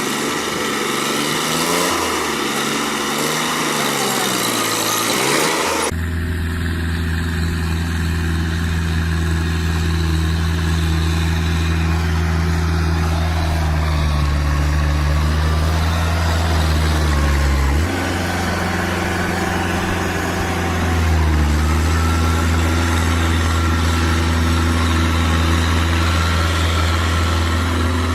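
Engine running, its pitch rising and falling repeatedly for the first few seconds. Then it cuts abruptly to a steady, low engine drone that shifts pitch slightly a couple of times.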